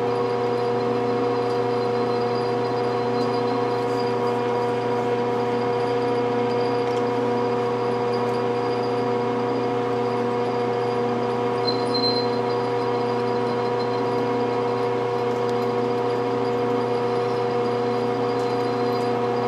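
Milling machine running steadily while drilling a pilot hole in stainless steel: an even motor and gear hum made of several constant tones, with one brief high squeak about twelve seconds in.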